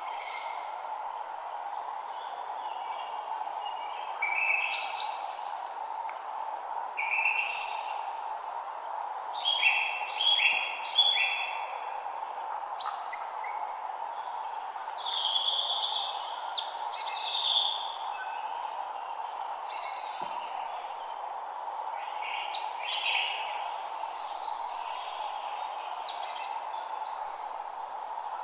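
Several woodland songbirds singing in short chirping phrases every second or two, over a steady background hiss.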